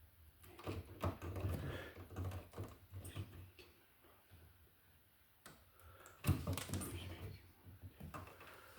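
Irregular clicking, tapping and scraping of hand tools and a wall receptacle being handled, in two spells with a sharper click near the middle of the second.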